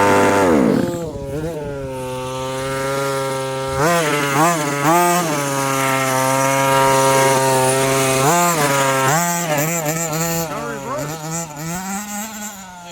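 Small two-stroke gas engine of a 1/5-scale RC truck revving down from high speed to idle in the first second, then idling steadily with several short throttle blips.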